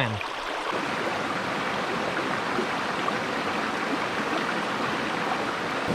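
Steady rush of a small, fast-dropping creek, its current running between pools.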